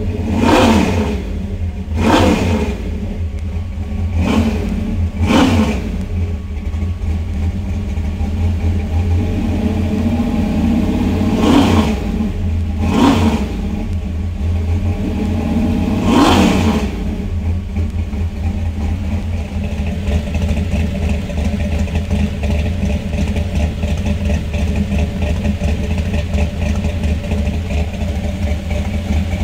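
1969 Dodge Dart drag car's 572ci HEMI V8, through its dual Flowmaster exhaust, idling with a heavy rumble and blipped seven times in quick throttle stabs, each a sharp rise and fall in pitch. The last blip comes a little over halfway through, and the engine then settles back to a steady idle.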